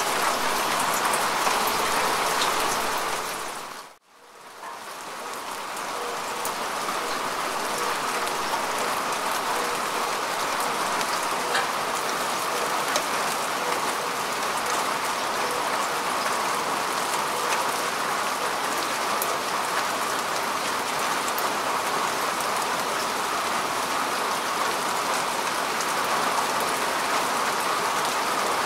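Steady rain falling on grass and earth: a dense hiss with scattered ticks of single drops. It fades down to near silence about four seconds in, then fades back up over the next few seconds.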